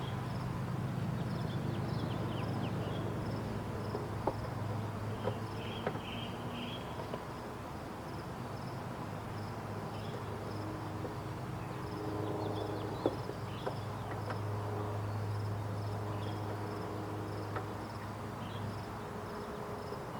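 Honeybee swarm buzzing: a steady low hum, with the wavering tones of single bees flying close by. A high chirp repeats steadily in the background, and there are a few light taps.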